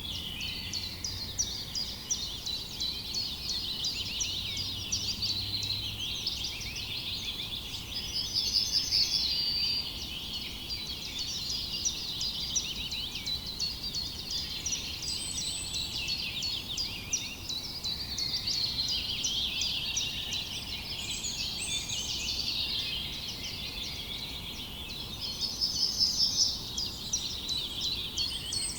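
Many small birds chirping and trilling at once in a steady dawn-chorus-like mix. Twice, about eight seconds in and near the end, one bird gives a louder run of rapid repeated notes.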